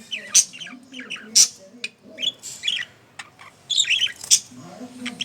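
Pet budgerigar warbling: an uneven run of quick high chirps broken by sharp squawks, with short gaps between the bursts.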